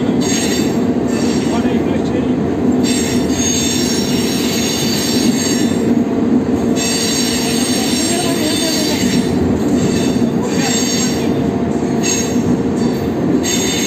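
Locomotive running through a tunnel, heard from inside the cab: a steady rumble of the wheels on the rails, with a high-pitched wheel squeal that comes and goes several times as the wheels take the curving track.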